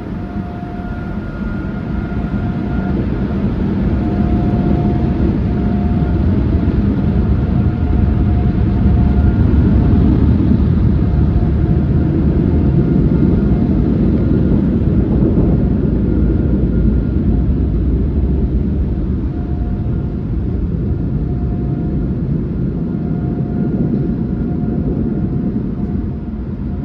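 Automatic express car wash equipment running: a loud, steady rumbling roar that builds to a peak about ten seconds in and then eases off, with a faint whine coming and going over it.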